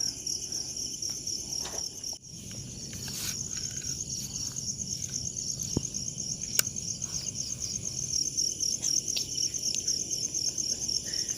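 Crickets chirring in a steady, rapidly pulsing high trill, with two sharp clicks near the middle.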